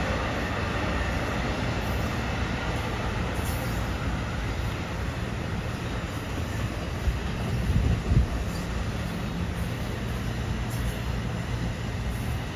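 Passenger train running past on the rails, a steady rumble of wheels and running gear, with a short louder thump about eight seconds in.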